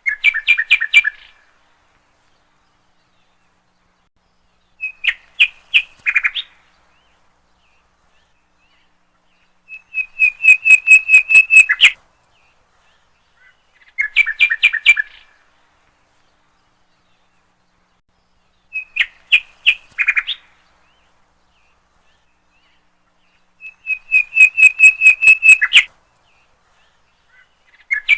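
Small bird chirping in short bursts of rapid, sharp, high chirps, one burst about every four to five seconds with silence between. The same sequence of bursts repeats, as in a looped bird-call recording.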